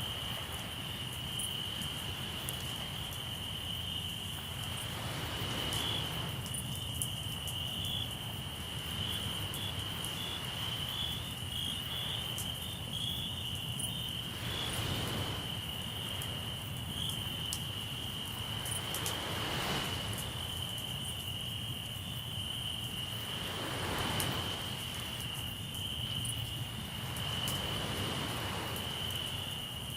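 Crickets trilling steadily at a high pitch, over a low steady rumble. Soft whooshing swells of noise come every four to five seconds, with faint scattered crackles from the campfire.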